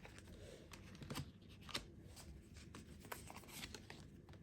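Faint rustling and soft light clicks of tarot cards being handled and laid down, a few scattered taps.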